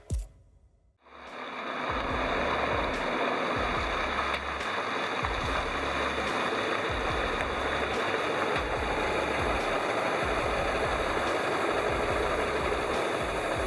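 Heavy truck running under way, a steady loud rumble of engine and road noise that starts about a second in.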